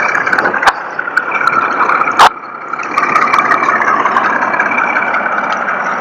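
Truck engine running steadily, with a sharp knock a little over two seconds in; the engine noise grows louder about three seconds in.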